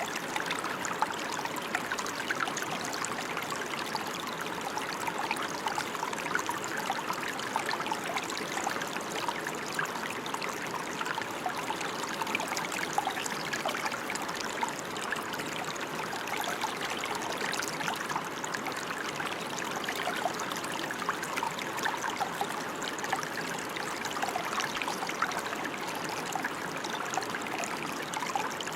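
Steady rain: a dense, even hiss of falling drops with many small separate splashes, unchanging throughout.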